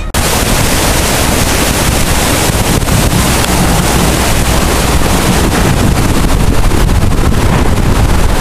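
Loud, steady rushing of the flooded Sauk River pouring through below the dam: a dense, even roar of water with no let-up.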